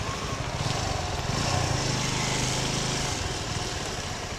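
Small engines running at low speed in slow traffic: the Suzuki Gixxer 250's single-cylinder engine, with a TVS King auto-rickshaw running just ahead. The low pulsing rumble grows a little stronger for a second or two partway through.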